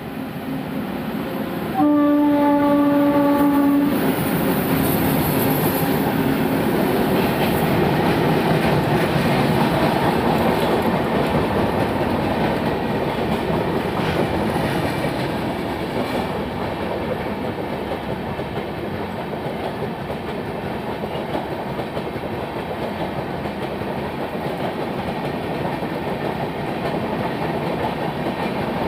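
WAP-7 electric locomotive sounds its horn once, a single steady blast of about two seconds starting about two seconds in. Then a long express train of coaches rolls steadily across a concrete rail bridge, wheels clattering on the rails.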